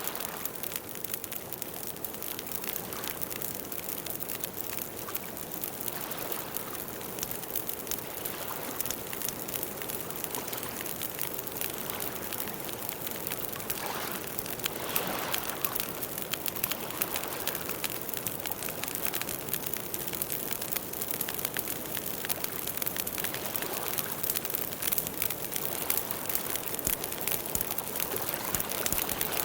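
Campfire burning, wood crackling and popping with many small, rapid snaps over a steady hiss.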